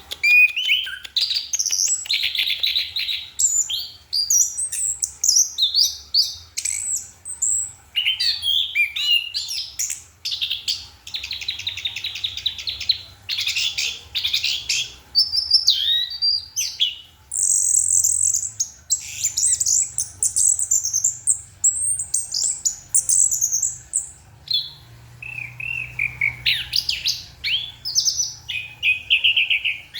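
Orange-headed thrush singing a long, varied song: fast whistled phrases that rise and fall, rapid trills and buzzy stretches, loud and nearly unbroken, full of mimicked phrases learned from other birds.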